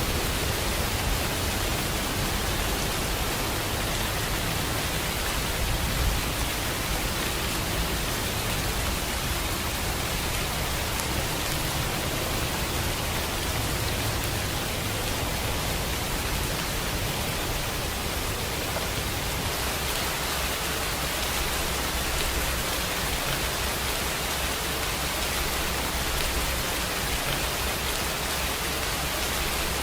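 Steady rainfall, an even hiss of rain falling on a surface with no distinct drops or breaks.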